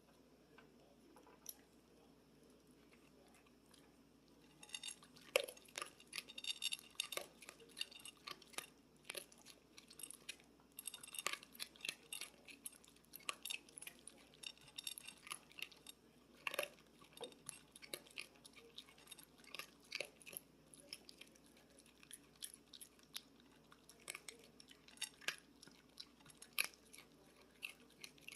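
A raccoon chewing and crunching food: irregular crisp crunches and clicks that start about four and a half seconds in and carry on with short pauses.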